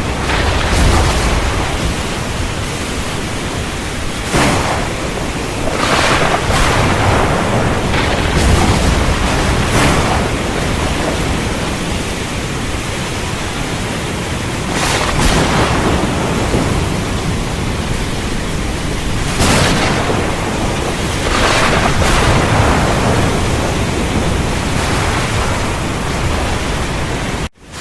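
Heavy rain falling in a steady dense hiss, swelling louder in gusts every few seconds, with low thunder rumbling under it. The sound cuts out for a split second near the end.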